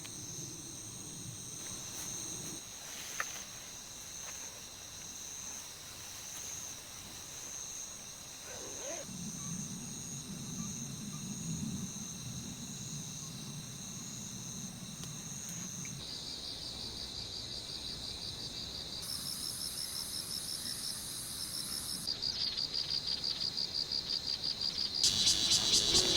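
Insects chirping and trilling in a steady high-pitched chorus, becoming a pulsing trill that grows louder near the end.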